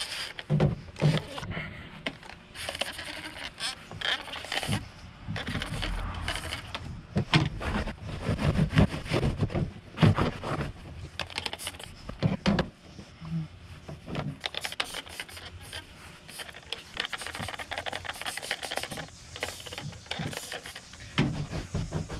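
Hand-held trigger spray bottle spritzing cleaner onto a cotton T-shirt in short, irregular squirts, mixed with the fabric being rubbed and handled.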